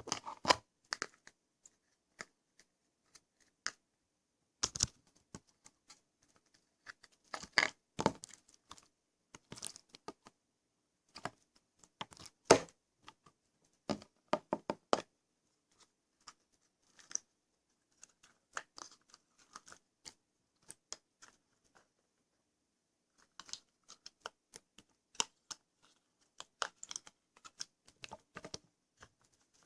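Irregular clusters of small clicks and crackles from hands working with slime-making materials, with short quiet gaps between them.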